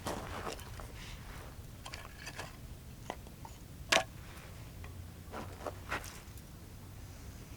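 A few scattered light clicks and knocks of objects being handled, the sharpest about four seconds in, with a couple more near the six-second mark.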